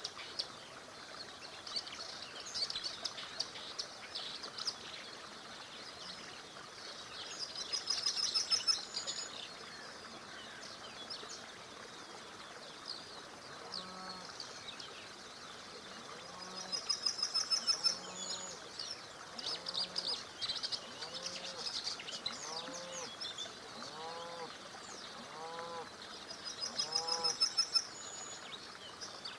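Birds singing over a steady rush of flowing river water. One bird repeats a fast, high trilled phrase about every nine seconds, other birds chirp between, and in the second half a lower call repeats about once a second.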